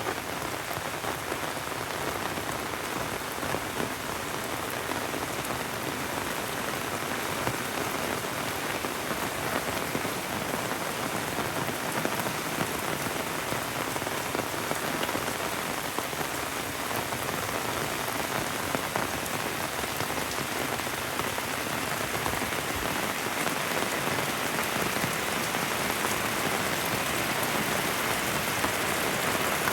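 Heavy rain falling steadily: a dense, even hiss of many drops, growing a little louder in the last few seconds.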